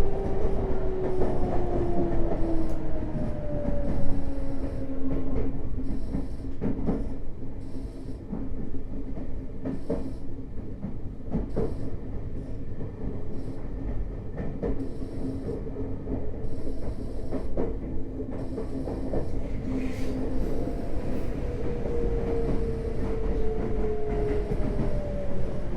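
Running sound inside a Tokyo Metro 05 series train car, with the whine of its Mitsubishi IGBT-VVVF inverter and traction motors over the wheels' rumble on the rails. The whine falls in pitch at the start, holds one steady tone for most of the stretch, and then sets off new falling tones near the end. Scattered sharp clicks of rail joints sound throughout.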